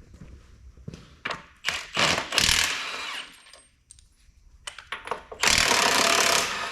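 A 3/4-inch-drive impact gun hammering on bolts in two bursts, one about two seconds in and a louder one about five and a half seconds in, each lasting about a second. A few metal clinks come between the bursts.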